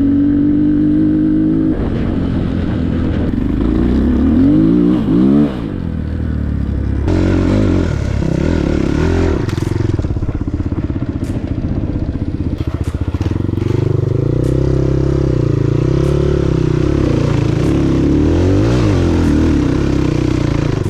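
Enduro motorcycle engine running under way, revving up and down several times, with a few sharp knocks and clatter from the bike over rough ground.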